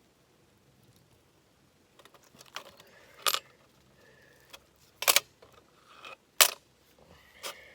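A handful of sharp clinks and knocks from hard objects being handled, five or so separate hits, the loudest a little past the middle.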